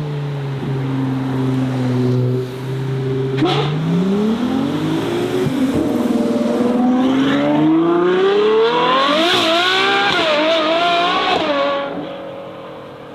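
A car engine idling steadily, then pulling away: its pitch climbs for several seconds as it accelerates, goes up and down near the top, and fades near the end as the car drives off.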